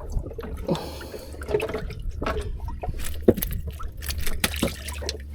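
Water splashing and dripping in short irregular bursts against a boat, over a steady low hum.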